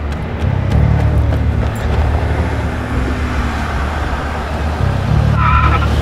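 Car engine running hard as a car speeds along, surging louder about half a second in and again near the end, with a brief high squeal near the end.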